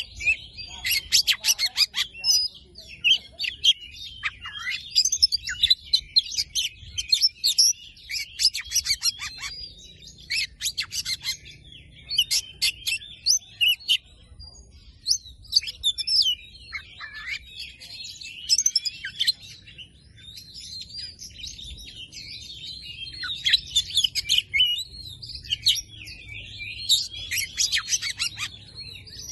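Oriental magpie-robin (kacer) singing a varied song of quick whistles, trills and scratchy notes almost without pause, with a short break about halfway through.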